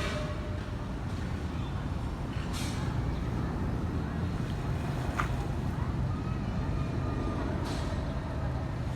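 Steady low rumble of a Boeing 747-400 freighter's jet engines heard at a distance, with a few faint tones and brief swishes over it.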